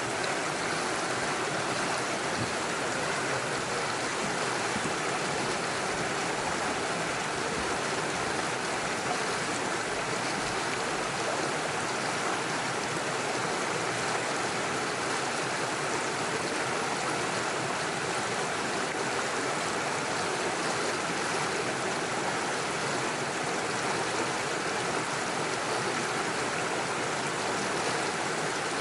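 Small forest stream flowing over stones, a steady even rush of water with no breaks.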